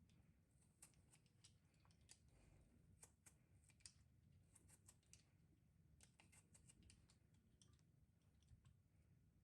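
Faint, irregular light clicks and taps, a few each second, over near silence.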